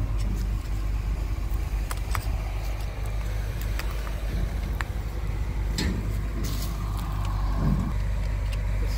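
A car engine idling with a steady low hum, with scattered light clicks and taps of hands working the seatpost clamp and saddle rail hardware on a bicycle.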